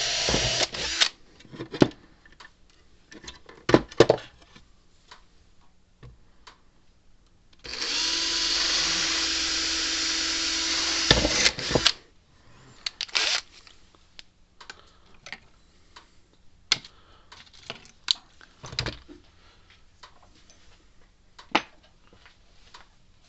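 Power drill running in two bursts as holes are drilled in a fence energizer: one run stops about a second in, a second runs about four seconds in the middle, with clicks and knocks of handling between and after.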